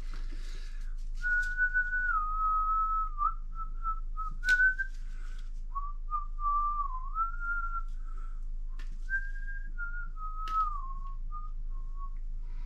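A person whistling a tune, a single clear whistled line that wanders up and down in pitch with short breaks between phrases. A few sharp clicks sound over it, one about four and a half seconds in and two more near the end.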